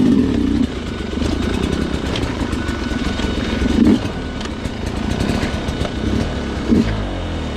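Sherco two-stroke dirt bike engine running at low revs, with a few short bursts of throttle and light clicking and clattering throughout.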